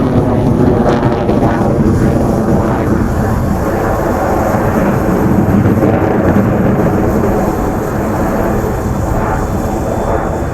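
Su-30SM fighter jets' engines making a loud, steady rumble that eases slightly near the end.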